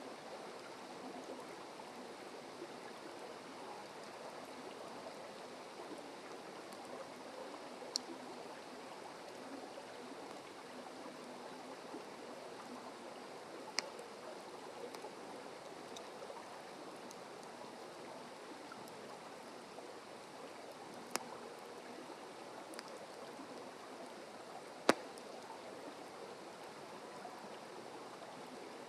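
Wood fire burning with a steady soft hiss, broken by a few sharp pops of the burning wood, the loudest about 25 seconds in.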